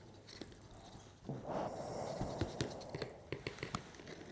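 Faint rubbing with scattered light clicks and taps: metallic powder being rubbed by hand into a recess of a small part. The rubbing swells for about a second a little after one second in.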